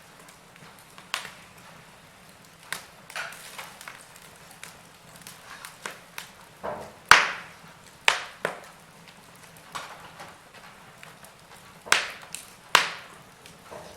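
Wood fire crackling in a fireplace: irregular sharp pops and snaps over a faint steady hiss, the loudest pop about halfway through.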